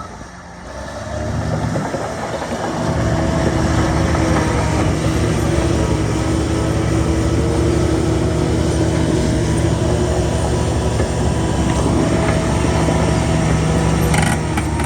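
Shantui bulldozer's diesel engine building up over the first couple of seconds and then running steadily under heavy load, with a steady whine running through it.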